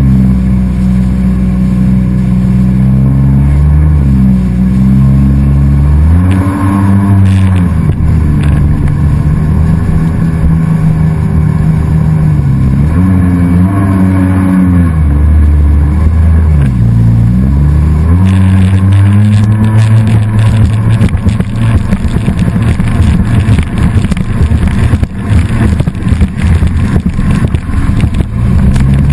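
A motor engine running close and loud, its pitch rising and falling several times as it revs up and eases off. From about eighteen seconds in, a rough, choppy rushing noise joins it.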